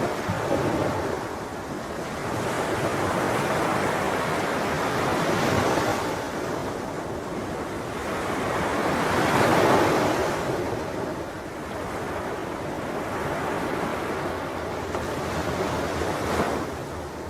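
Ocean waves breaking and washing up on a shore, the surf swelling and ebbing every few seconds with the largest surge about ten seconds in.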